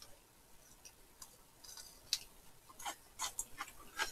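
Faint eating sounds: small wet clicks and smacks of chewing, a few each second, picking up about a second in.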